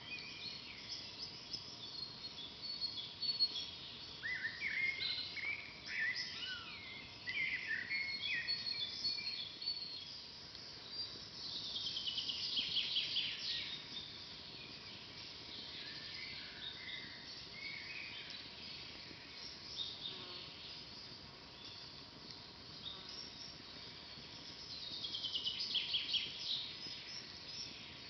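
Several songbirds singing in a forest: short chirping phrases throughout, and a louder rapid trill of quick repeated notes about twelve seconds in and again near the end, over a faint steady background hiss.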